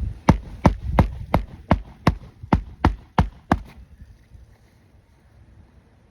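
Hammer strikes on a shingle roof, as in nailing down a shingle: about ten sharp, even blows, roughly three a second, that stop about two-thirds of the way through.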